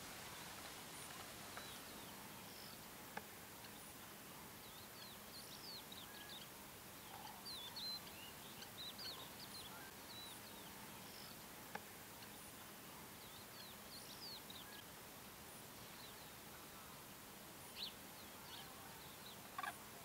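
Faint outdoor ambience of wild birds twittering: short, high chirps in scattered bursts over a steady hiss, with a couple of single sharp clicks.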